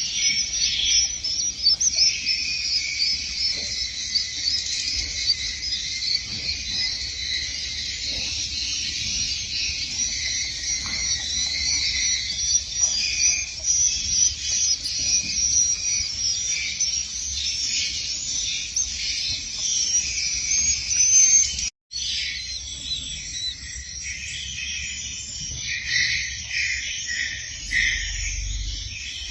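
A dense, continuous chorus of many swiftlets chirping at once, rapid high chirps overlapping without pause, briefly cutting out about three-quarters of the way through.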